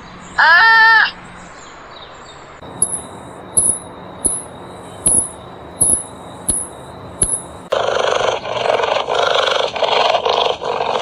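Animal calls: a short pitched bleat near the start, then about seven short high chirps spaced well under a second apart, then a loud, rough, pulsing growl from about two-thirds of the way in.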